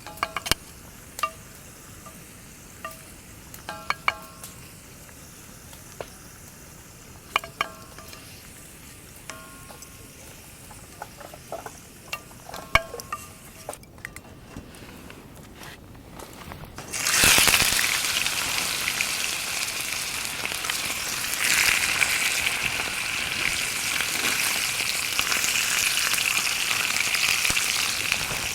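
A few light metallic clinks of cooking gear, then a little past halfway a loud sizzle starts suddenly and keeps going: wagyu beef steak laid on a hot pan over the fire, frying.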